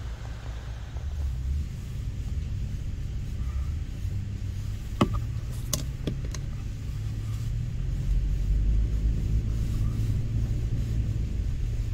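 Toyota FJ Cruiser driving off-road on a dirt trail: a steady low rumble of engine and tyres, getting louder about eight seconds in. Three or four sharp knocks come around the middle.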